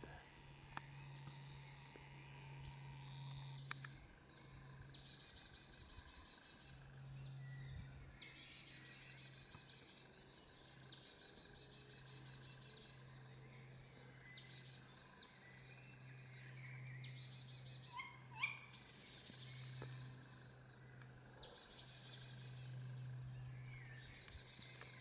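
Young owls giving begging calls in the dark, faint and repeated every two to three seconds: each a sharp high note followed by a raspy, rapidly pulsing buzz about a second long.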